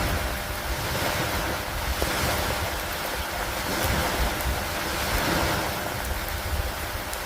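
Steady rain ambience with a low rumble underneath, gently swelling and easing every couple of seconds.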